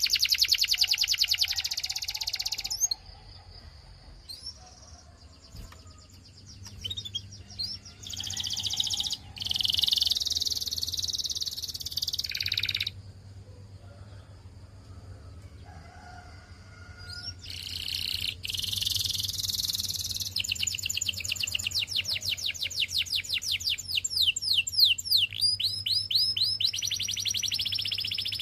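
Canary singing: phrases of fast trills made of quickly repeated falling notes, with rolling passages between, broken by pauses of a few seconds. A faint steady low hum runs underneath.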